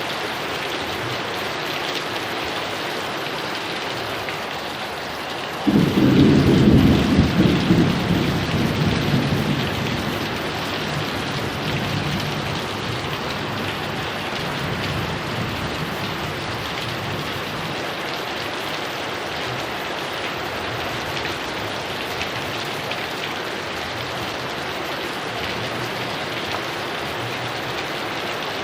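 Heavy rain falling steadily; about six seconds in, a loud thunderclap breaks in suddenly and rumbles on, fading over the next several seconds back under the rain.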